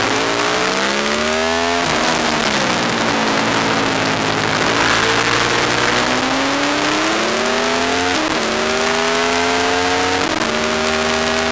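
Aprilia SXV550 supermoto's V-twin engine under load on track. The revs climb, then drop sharply about two seconds in, then build slowly again, with two quick dips in pitch near the end as it changes up a gear. Steady wind rush over the microphone.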